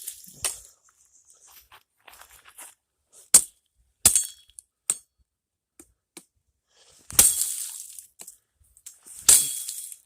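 Dry sticks and brush being snapped and handled: a few sharp cracks, then two longer crunches about seven and nine seconds in.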